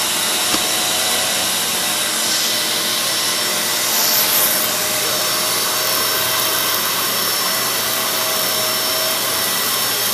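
Kenmore 600 series bagless upright vacuum cleaner running steadily while being pushed over carpet, its motor and suction making a steady whir with a faint hum, and brief swishes of air and debris around two and four seconds in.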